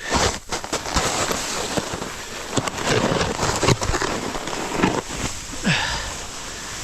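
Snowboard running through snow, the board scraping and chattering with many sharp cracks and knocks, picked up close on a GoPro's microphone. A couple of short grunts or breaths from the rider are mixed in.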